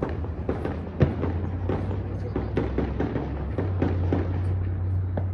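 Fireworks popping and banging in a rapid, irregular string, with one louder bang about a second in, over music playing.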